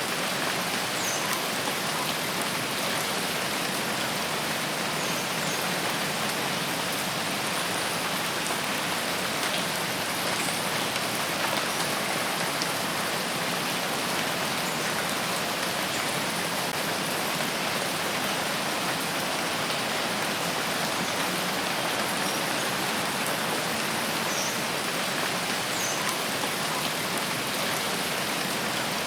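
Steady rain falling in a rain forest: an even, unbroken hiss.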